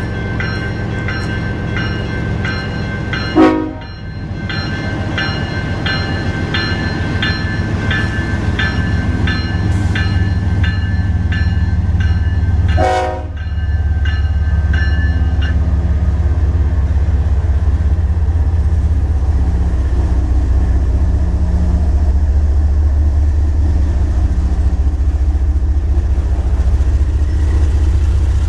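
Canadian Pacific coal train rolling out, its diesel locomotives making a steady low rumble that grows louder. A level-crossing bell rings about twice a second and stops about fifteen seconds in. The horn gives two short toots, about three and a half and thirteen seconds in.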